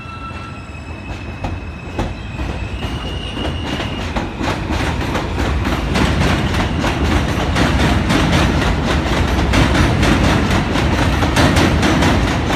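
NYC subway train of R160A or R179 cars coming into the elevated station on the BMT Jamaica Line, growing steadily louder. Its wheels clatter over rail joints in a quick even rhythm over a heavy rumble, with a thin high wheel squeal in the first few seconds.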